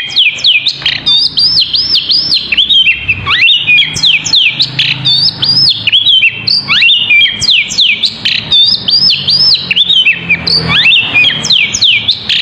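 A caged songbird known in Indonesian bird-keeping as 'poci' singing a continuous, fast song of sharp whistled notes that sweep up and down, several a second, without a break. It is the kind of loud 'gacor' song that keepers play to provoke kacer (magpie-robins) into singing back.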